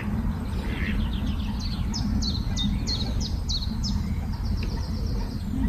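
A songbird singing: a run of quick, high downward notes, about three a second, that runs into a faster trill near the end, over a steady low rumble.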